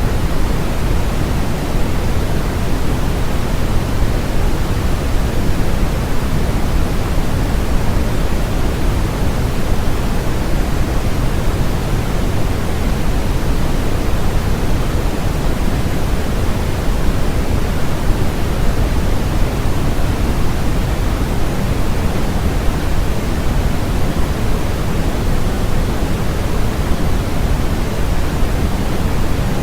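Continuous generated noise, a steady unchanging hiss with more weight in the low end than the high.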